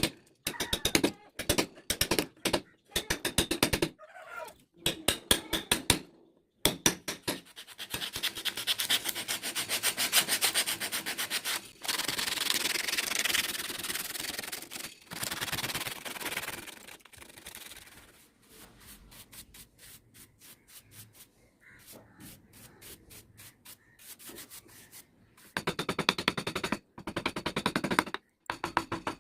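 Wood being sanded, a loud scratchy rubbing in quick strokes through the middle of the stretch. Rapid clicking comes at the start, then fainter ticking, and the rapid clicking returns near the end.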